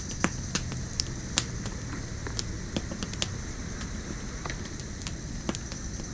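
Campfire crackling, with irregular sharp pops, over a steady high drone of jungle insects.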